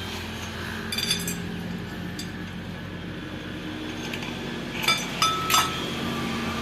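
Metal tools and parts clinking against each other during tractor gearbox work: a few sharp clinks, with a quick group about five seconds in that leaves a short ringing tone. A steady low hum runs underneath.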